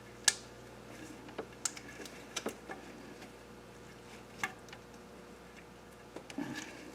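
Scattered light clicks and knocks of small engine parts and tools being handled and fitted, the sharpest click about a quarter second in and a small cluster near the end, over a faint steady hum.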